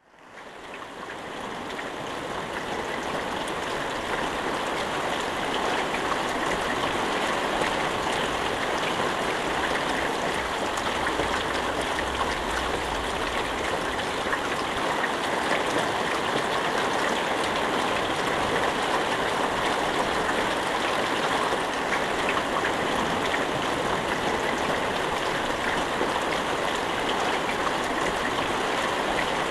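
Steady rain falling, an even hiss with scattered fine drop ticks, fading in over the first few seconds.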